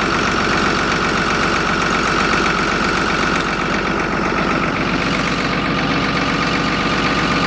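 New Holland 8770 tractor's six-cylinder diesel engine idling steadily while still cold after a −16°C cold start, chugging along.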